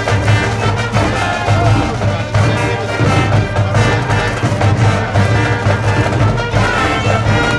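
School brass band playing a baseball cheering tune, trumpets and trombones over a steady low beat.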